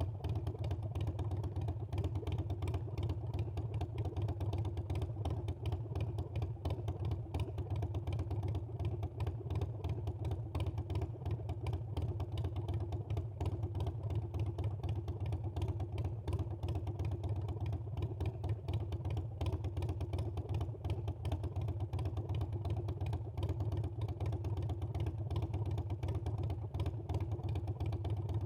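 Harley-Davidson Iron 883's air-cooled V-twin engine running at an even pace, with a low, steady note and no clear revving.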